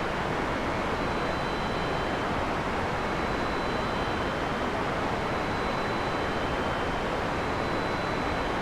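Heavy rain falling steadily, a dense even hiss with no thunderclap, and faint steady high tones running through it.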